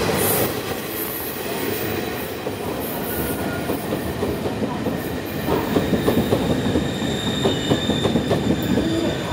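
Taiwan Railways E300-class electric locomotive passing close, followed by its rake of passenger cars rolling through: a steady rumble of wheels on rail. From about five and a half seconds in there is a quick, repeated clatter of wheels over rail joints, with a faint high wheel squeal.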